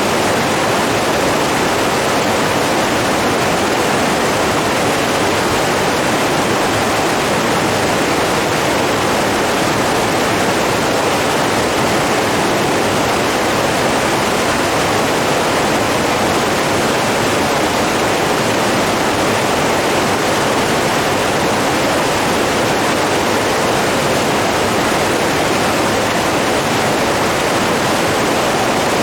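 Steady rushing of running water, like a stream or small falls, holding an even level without any change.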